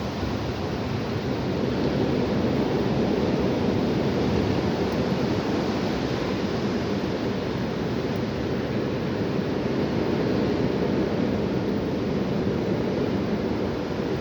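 Strong wind blowing outdoors: a steady rushing noise that grows a little louder about two seconds in.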